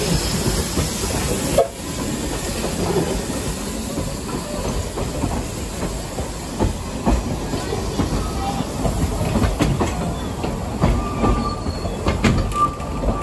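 Steam hissing from a narrow-gauge steam locomotive, cut off about a second and a half in. Then Ffestiniog Railway passenger coaches roll past, their wheels rumbling and clicking over the rail joints, with brief wheel squeals near the end.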